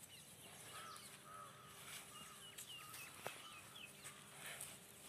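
Faint bird calls: a run of short, repeated chirping notes over low outdoor background noise, with one sharp click a little past the middle.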